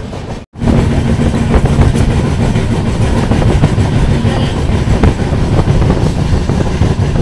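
Express passenger train running along the track: a loud steady rumble with a low hum and light rail clatter, starting after a short break about half a second in.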